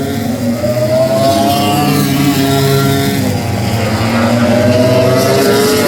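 MotoGP race motorcycle engine at high revs, its pitch climbing twice as it accelerates.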